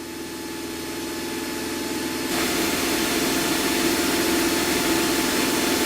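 Cessna A152's four-cylinder Lycoming engine and propeller droning steadily in flight, heard in the cabin at an even pitch, growing louder over the first couple of seconds.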